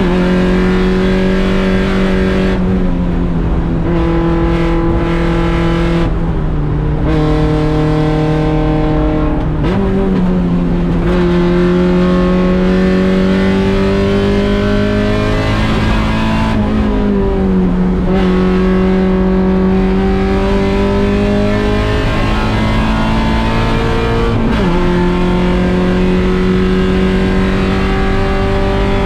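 Mazda Miata 1.6-litre four-cylinder race engine at high revs under load. The note climbs steadily in pitch through each gear and dips sharply at the gear changes, about three times, with a few steps down early on under braking.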